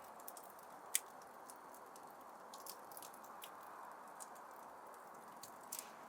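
Wood fire crackling in a fireplace: a steady soft hiss of burning with scattered sharp pops and snaps, the loudest about a second in and a quick cluster near the end.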